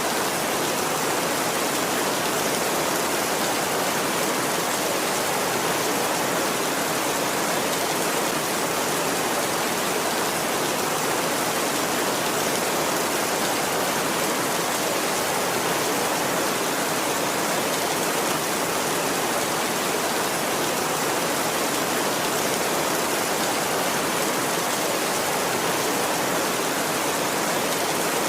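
Heavy rain drumming steadily on a tin roof, an even, unbroken hiss with no thunder.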